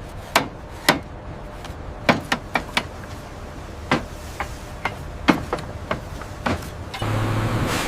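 Sharp, irregular metal knocks and clanks, about two a second, like hammer strikes on steel. A steady machine hum starts near the end.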